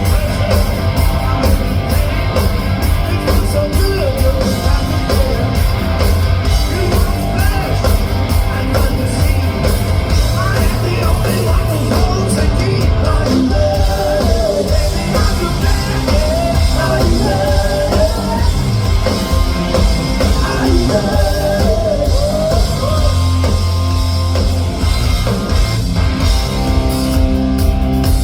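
Live rock band playing loud, with a heavy, steady bass and drums, guitars, and a wavering lead melody line through the middle.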